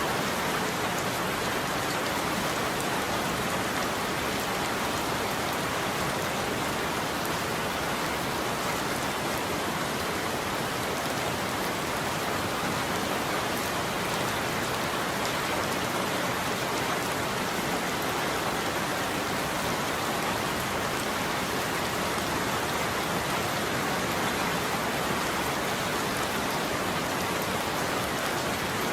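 Steady rain falling on a roof, an even, unbroken patter with no thunder in this stretch.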